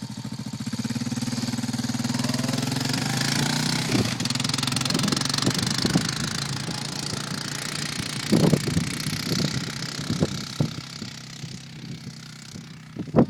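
A quad bike's engine running steadily with a hiss, loudest in the first six seconds and then fading. Several short, sharp loud sounds come in the second half.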